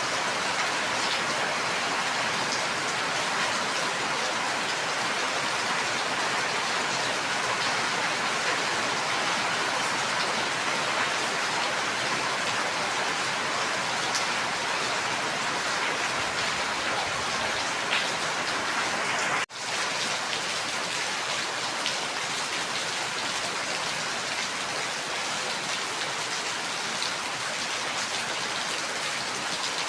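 Steady rain falling, with individual drops ticking through the hiss. The sound cuts out for an instant about two-thirds of the way through, then carries on.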